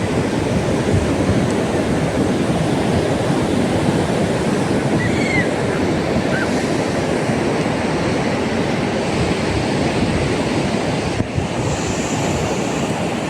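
Ocean surf breaking steadily on the beach, with wind on the microphone.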